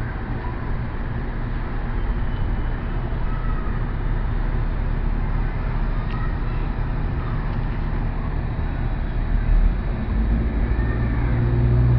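Steady low rumble of vehicle traffic, swelling near the end, with faint high squeals now and then.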